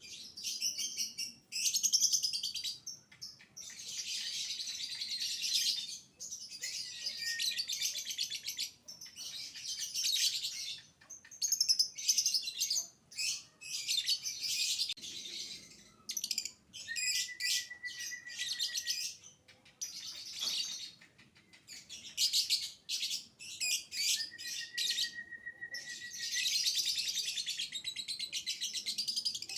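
Young lovebird singing its long, rapid, high chattering song in bursts of a few seconds, with short breaks between them; twice a thin, steady whistled note runs under the chatter.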